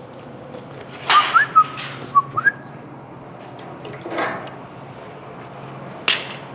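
A person whistling a few short notes that slide up in pitch, with a sharp metallic clack about a second in and another near the end over a steady low hum.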